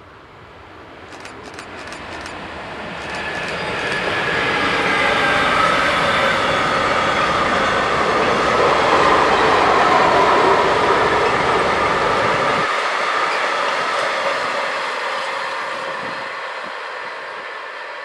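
A freight train of silo wagons hauled by an electric locomotive passing by. It grows louder over the first few seconds, stays loud through the middle, then fades as the train draws away.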